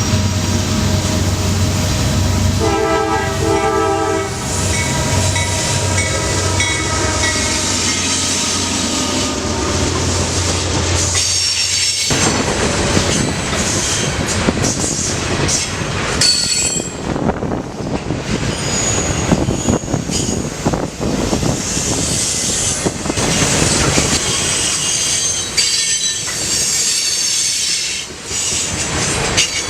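Norfolk Southern manifest freight train passing: the diesel locomotives rumble by and sound the horn briefly about three seconds in, then from about twelve seconds in the freight cars clatter over the rails with intermittent high wheel squeal.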